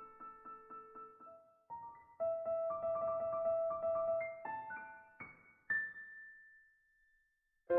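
Background piano music: slow chords and held notes. A long note fades almost to silence near the end, then a new chord strikes.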